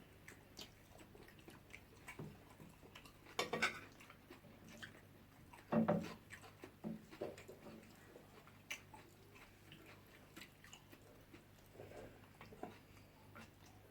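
People chewing and eating fish and jollof rice: soft mouth noises and scattered small clicks, with two louder bursts about 3.5 and 6 seconds in.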